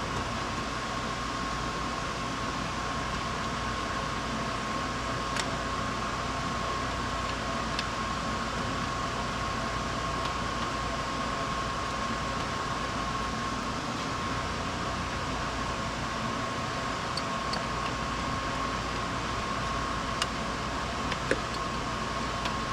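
Steady fan-like mechanical hum with a constant high whine, broken by a few faint light clicks.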